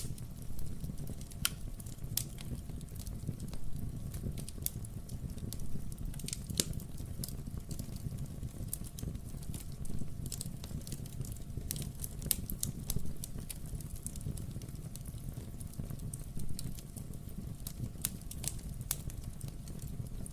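Wood fire burning in a fireplace: a steady low rumble under frequent, irregular sharp crackles and pops from the burning logs.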